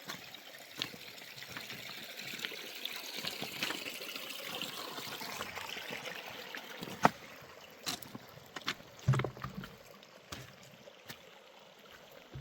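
Water trickling and pouring, swelling in the middle and easing off, with scattered knocks and a low thud about nine seconds in.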